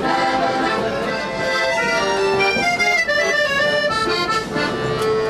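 Accordion music: a melody of short held notes over chords, in a traditional folk style.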